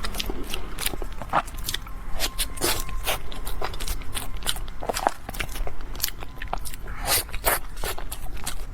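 Close-miked biting and chewing of a crisp, crunchy snack: a quick, irregular run of crackling crunches.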